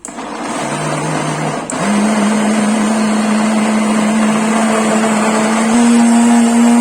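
Countertop blender motor running loud and steady, blending corn cake batter of canned corn, eggs, sugar, oil and milk. The motor pitch steps up about two seconds in and again slightly near the end.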